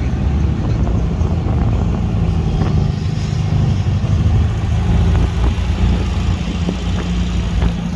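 A car engine running steadily, its sound mostly low-pitched.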